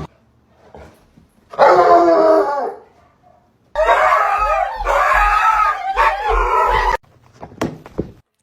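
A dog howling: a short wavering howl, then a longer one of about three seconds that rises and falls in pitch.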